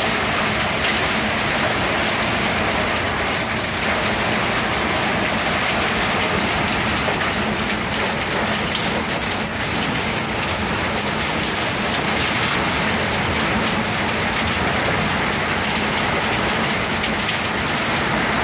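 Heavy rain pouring down in a storm: a dense, steady hiss of rain that does not let up.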